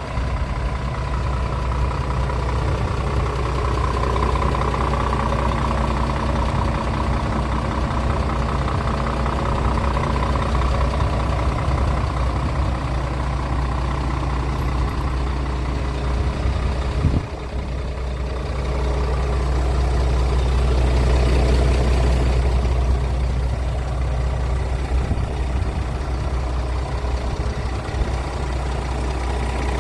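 Scania R450 tractor unit's 13-litre six-cylinder diesel idling steadily, with a single sharp click a little past halfway and a short stretch where the engine sounds a little louder.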